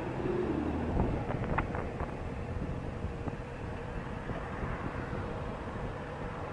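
Vehicle engines running in traffic, with wind on the microphone and a few short knocks about a second and a half in.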